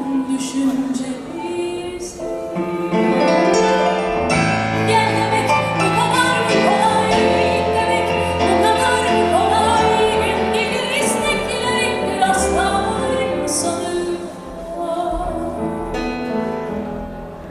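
Live band with piano playing an instrumental passage between sung verses of a song; a low bass line comes in about four seconds in, with a few bright crashes over the top.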